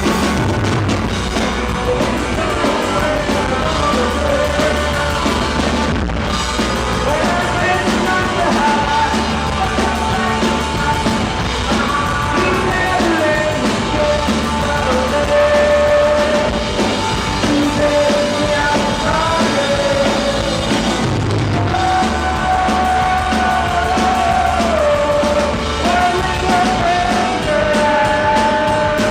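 Live rock band playing a song, with a male lead voice singing over distorted guitars, bass and a drum kit.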